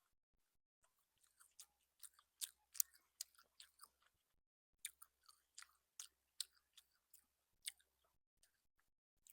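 Close-miked chewing of crisp fried food, many sharp crunches at an uneven pace. They come in two runs, with a pause of about a second around the middle.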